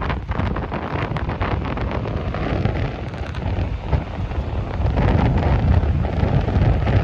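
Strong typhoon wind buffeting the microphone in uneven gusts, with the rush of heavy surf beneath.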